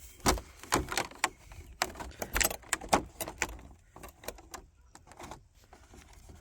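Irregular clicks, knocks and light clatter as the ducklings' enclosure is closed and secured for the night, busiest in the first few seconds and thinning out after.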